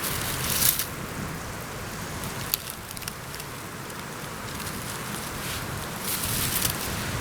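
Dry crackling and rustling of pine branches, needles and forest-floor litter being handled or stepped on. Rustling bursts come about half a second in and again about six seconds in, with a sharp snap about two and a half seconds in, over a steady low rumble of wind.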